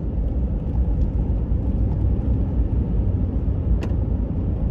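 Road and engine noise inside a moving car: a steady low rumble, with a single sharp click close to four seconds in.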